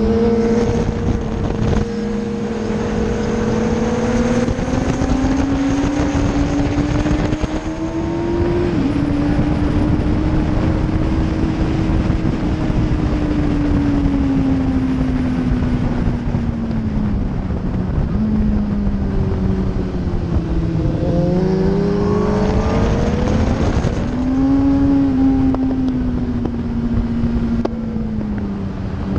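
Suzuki GSX-R1000 K4 inline-four engine running hard on track, heard from an onboard camera with heavy wind rush. The revs climb for about the first eight seconds and ease slowly, drop with breaks as the bike slows around twenty seconds in, then climb again before settling.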